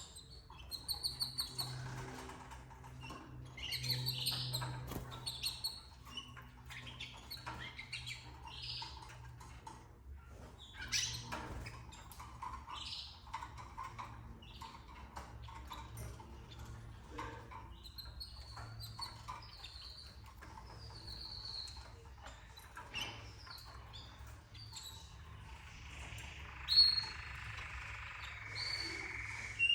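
Canaries chirping and calling in short bursts, with rapid trills in the first few seconds, over a steady low hum.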